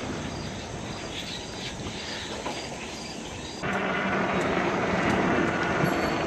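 Steady wind and rolling noise on an action camera during an e-bike ride, with a faint high chirping repeating about twice a second. About three and a half seconds in it turns abruptly louder, a steady rushing with a low hum.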